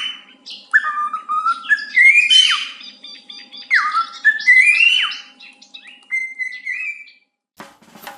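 A bird whistling a string of sliding notes: rising glides, quick falling swoops and short held tones, in phrases with brief gaps between them.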